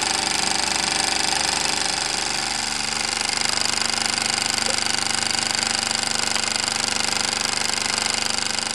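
Cyldon toy horizontal live-steam engine running fast and smoothly: a rapid, even patter of exhaust beats over a steady steam hiss.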